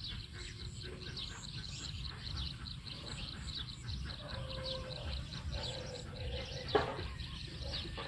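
Small birds chirping over and over in the background, quick high falling chirps, over a low rumble; one brief louder falling call stands out about two thirds of the way in.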